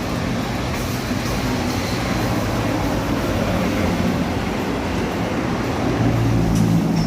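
A motor vehicle's engine running steadily with a low hum, growing slightly louder near the end.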